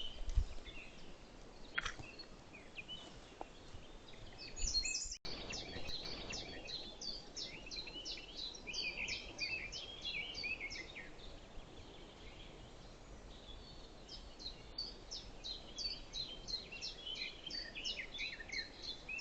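Songbirds singing: many short, quick, high phrases from several birds overlapping, over a faint even background noise.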